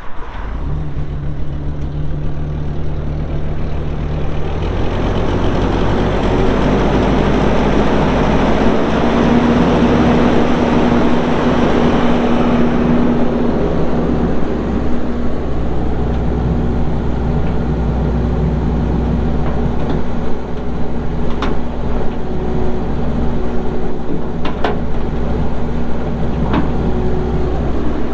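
Kubota SVL75-2 compact track loader's diesel engine catching and idling, then throttled up after about five seconds and running steadily at higher speed. A few sharp knocks come in the second half.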